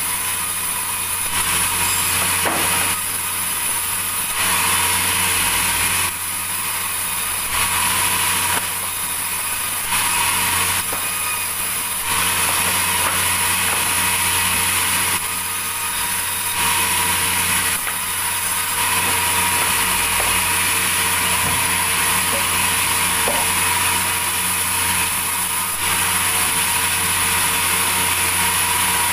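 Sawmill saw running steadily with its motor humming, cutting through timber, the high cutting noise swelling and easing every second or two.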